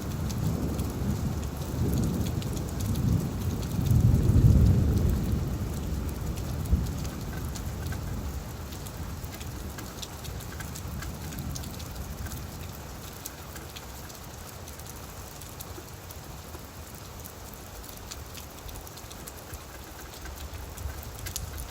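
Steady rain falling on leaves, with scattered drop ticks, under a low rolling rumble of distant thunder that swells to its loudest about four seconds in and dies away over the next several seconds.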